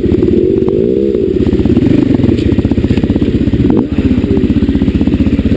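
Dirt bike engine running under way on a trail, a fast even pulse of firing strokes that rises briefly in pitch about a second in, with a few light clatters and clicks.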